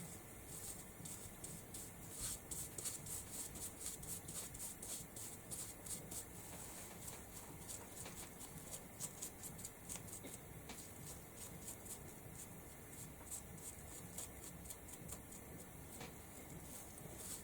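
Colour being dabbed and worked onto a craft surface by hand: light, irregular ticking and scratching, several taps a second, as the colours are blended in.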